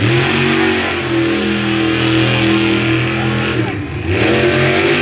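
Monster truck engine revving hard and held at high revs under throttle. It drops off briefly about four seconds in, then picks back up.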